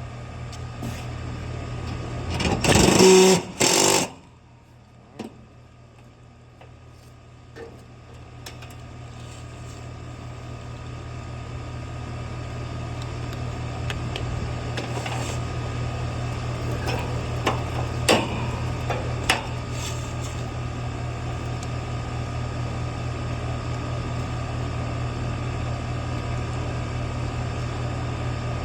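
Air-conditioner condenser unit running with its newly replaced fan motor: a steady hum with a loud clatter about three seconds in, and growing louder over several seconds before holding steady, with a few light clicks.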